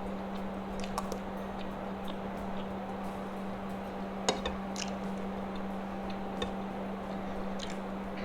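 Close-miked eating sounds: soft chewing with scattered small mouth and utensil clicks, the sharpest about four seconds in, over a steady low hum.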